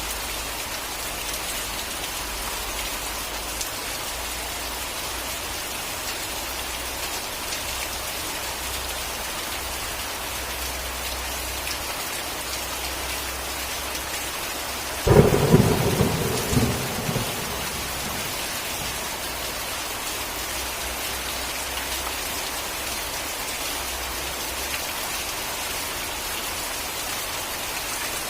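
Steady rain falling, with a single sharp crack of thunder about halfway through that rumbles for a couple of seconds before fading back into the rain.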